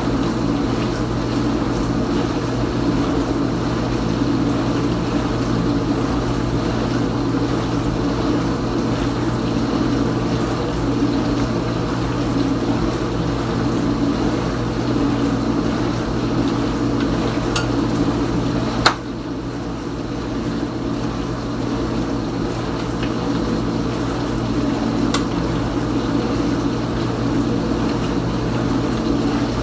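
Kenmore Ultra Wash 3 dishwasher running mid-cycle: the circulation pump motor hums steadily while water sprays around the tub. A single sharp click comes about two-thirds of the way through, and the running sound dips for a moment and then builds back up.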